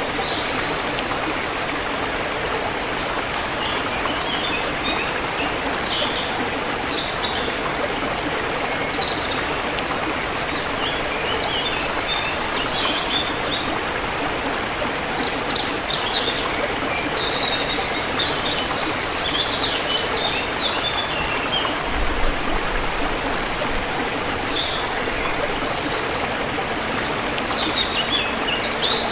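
A forest river flowing steadily over stones, with small birds chirping in short scattered phrases throughout.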